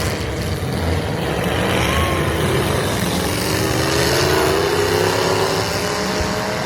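Derby trucks' engines revving hard together, several engine notes rising in pitch over a few seconds, over a dense mechanical din.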